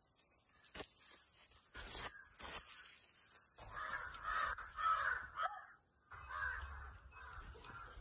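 Birds calling outdoors: a run of rough, repeated calls from about halfway through, with a short break near the end.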